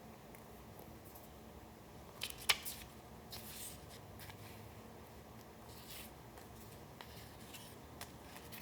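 Paper being handled for a collage: a few short, crisp rustles and clicks over quiet room tone, the sharpest a quick cluster about two and a half seconds in.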